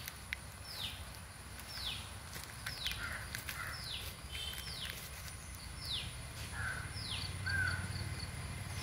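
A bird calling over and over, each call a short high note sweeping downward, about once a second, with a faint low background hum.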